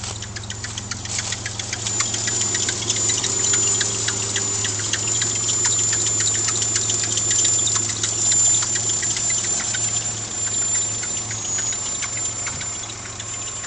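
Kia Sephia's four-cylinder engine idling through a 3A Racing aftermarket muffler, a steady low exhaust drone. Over it, a squeaky belt gives a thin high squeal from about two seconds in, along with rapid irregular chirps and ticks.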